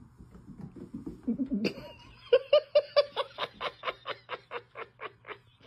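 A person laughing: a low chuckle, then a long run of rhythmic pitched 'ha' pulses, about four or five a second, that fade toward the end, over a steady low hum.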